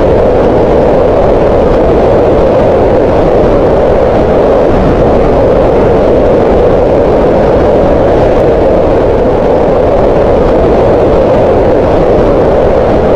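Green noise: a steady, unbroken hiss concentrated in the midrange around 500 Hz, with little energy in the highs.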